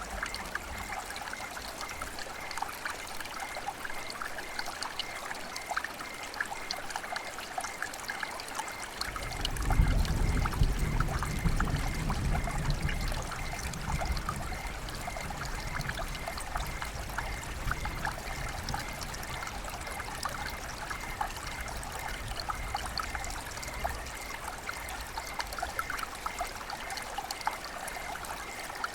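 River water flowing and trickling: a steady rushing hiss full of small splashes. About nine seconds in, a low rumble joins the water sound, strongest for a few seconds and then settling lower.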